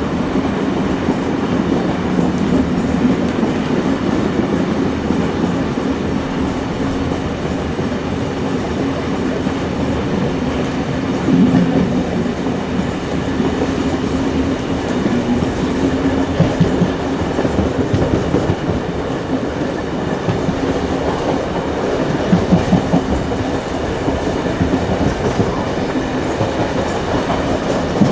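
Steam-hauled heritage train behind locomotives 3526 and 3265, heard from aboard: a steady rumble of wheels on rails with clickety-clack over the rail joints, and a few louder runs of clacks about halfway and near the end.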